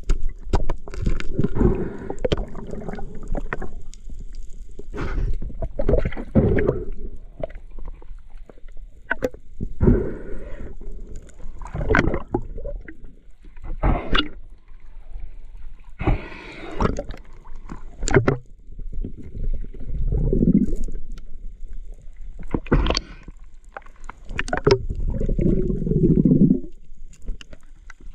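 Muffled underwater sound of water gurgling and sloshing in irregular surges every second or two, with scattered sharp clicks and knocks.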